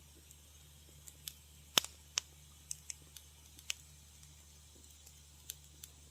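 Wood fire crackling in a fireplace: irregular sharp pops and snaps, with the loudest snap a little under two seconds in, over a faint steady low hum.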